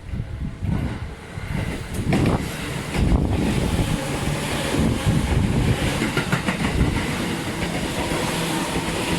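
Seibu 4000 series electric train running along the track, a steady rumble of wheels on rail that grows louder and hissier about three seconds in.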